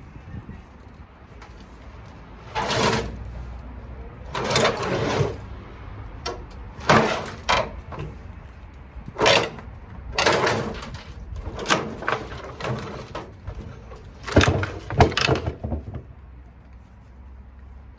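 Metal scraping and clattering from a washing machine being taken apart by hand: a dozen or so irregular bursts, each up to about a second long, over a steady low hum.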